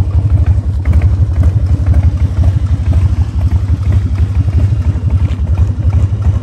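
A 2003 Harley-Davidson Dyna Low Rider's air-cooled Twin Cam 88 V-twin engine idling, with a rapid, uneven pulse.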